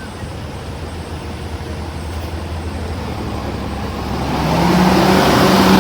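Semi truck diesel engine running with a low steady hum, then growing clearly louder from about four seconds in, with a steady engine note.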